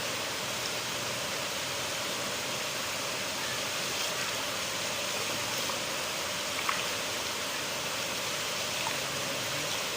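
River water flowing, a steady rushing. A single brief sharper splash or tick stands out about two-thirds of the way through.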